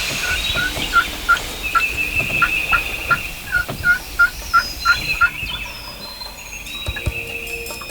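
Wild turkey yelping: a run of short, evenly spaced notes at about three a second, stopping a little past halfway.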